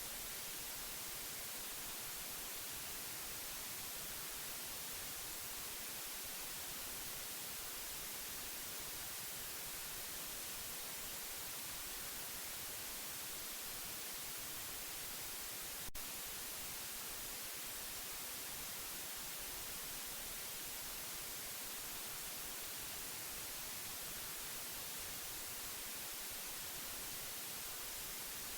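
Steady white noise for soothing a baby: an even, unchanging hiss, strongest in the high frequencies, with a single brief click about halfway through.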